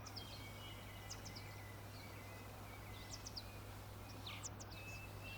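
Faint birdsong: short, high chirps in small clusters every second or two, over a low steady hum.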